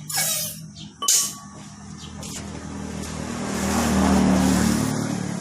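A motor vehicle passing by: its engine and road noise swell to a peak about four seconds in and then fade. Two short, sharp noises come before it, one at the start and one about a second in.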